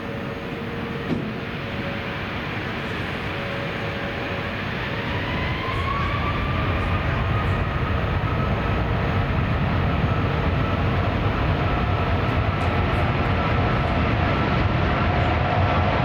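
Boeing 777-223ER's Rolls-Royce Trent 892 jet engines spooling up for takeoff. A whine rises about a third of the way in and then holds steady over a rumble that grows steadily louder.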